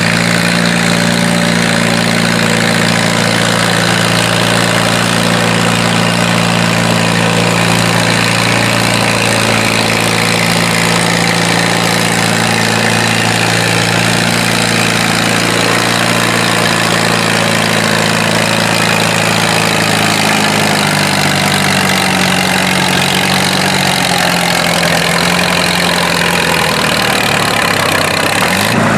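Antique tractor engine running steadily, its pitch slowly dropping over the last several seconds.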